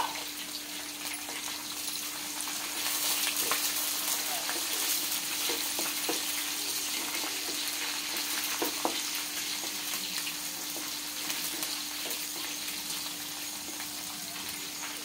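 Sliced onions and green chillies sizzling in hot oil in a kadai while a spatula stirs them, with a few light scrapes of the spatula against the pan. The sizzle grows louder about three seconds in.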